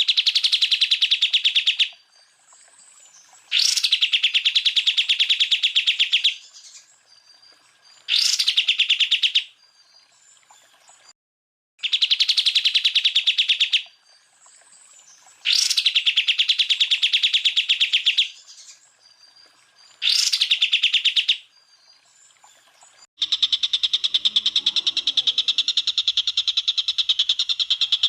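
Greater green leafbird (cucak ijo) singing its rapid machine-gun trills: repeated phrases of fast rattling notes, some opening with a sharp upward-sweeping whistle, then one long unbroken trill from about two-thirds of the way in.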